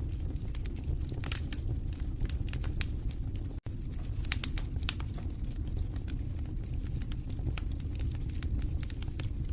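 Wood fire burning in a fireplace: a steady low rumble from the flames with frequent sharp crackles and pops. The sound cuts out for an instant about three and a half seconds in.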